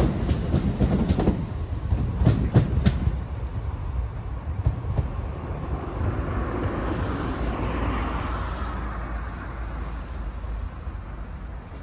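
Passenger train running over the level crossing, its wheels clacking over the rail joints a few times in the first three seconds. The sound then fades steadily as the train moves away.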